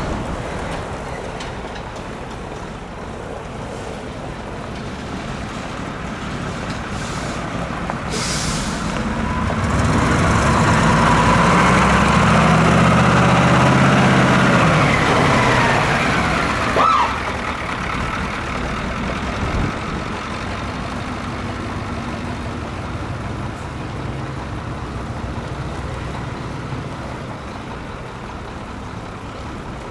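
A heavy diesel truck passes close by: its engine grows louder for several seconds, then drops in pitch and fades. A short hiss of air comes about eight seconds in, and a brief high squeal about seventeen seconds in.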